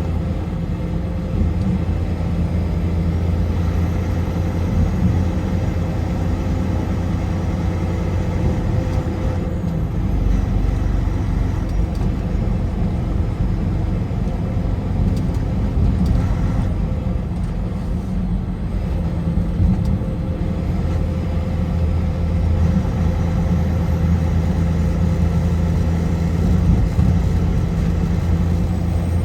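Car driving at highway speed: steady engine and tyre road noise with a low rumble, deepening for a while in the middle.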